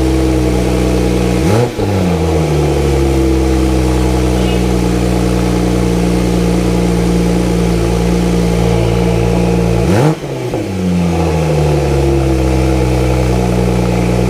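Porsche 911 Turbo S twin-turbo flat-six idling steadily and blipped twice, about a second and a half in and again near ten seconds. Each time the pitch jumps up sharply and falls back to idle.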